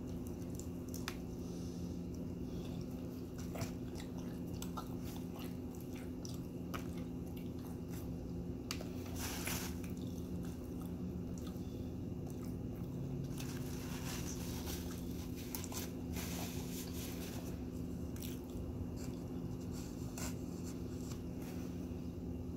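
Close-up mouth sounds of someone biting and chewing a bacon, egg and sausage McMuffin with cheese: wet chewing with scattered small clicks and a few short louder smacks, over a steady low hum.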